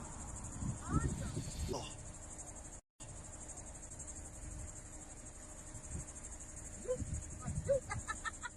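Steady, high-pitched chorus of chirping insects, with a short break in the sound about three seconds in.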